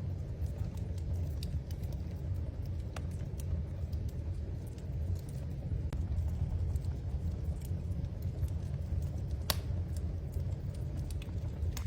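Wood fire crackling in a fireplace: scattered sharp pops over a steady low rumble, with one louder snap about nine and a half seconds in.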